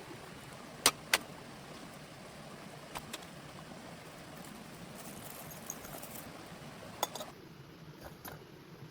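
Steady heavy rain hiss, broken by a few sharp clicks. The loudest are two clicks close together about a second in. The rain hiss eases slightly near the end.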